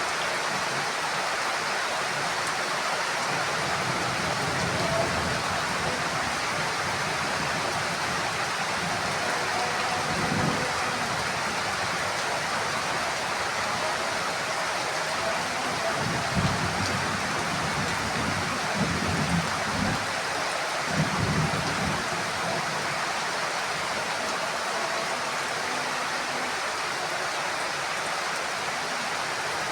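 Heavy rain falling steadily on a roof, an even hiss throughout. Several short low rumbles of thunder come through in the middle, about ten seconds in and again between sixteen and twenty-two seconds.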